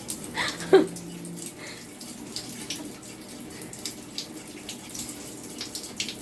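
Tap water running and spattering steadily, a sprinkle of water falling like rain, with many small splashes. About a second in, a short loud sound drops quickly in pitch.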